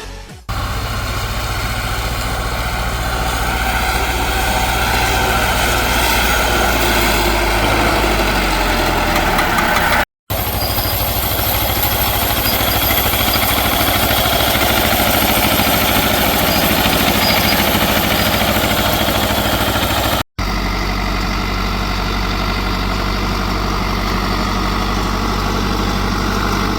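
Farm tractor diesel engines running steadily, heard in three separate shots that cut off suddenly about 10 and 20 seconds in.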